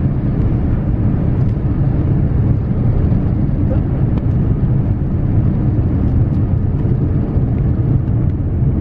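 Steady low rumble of a moving vehicle, with a faint even hum under it; the sound cuts off abruptly.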